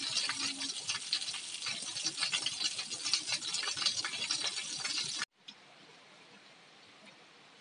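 Heavy rain, with rainwater pouring off a concrete roof edge: a dense, loud splashing hiss full of small drip impacts. About five seconds in it cuts off to a much fainter, steady rain hiss.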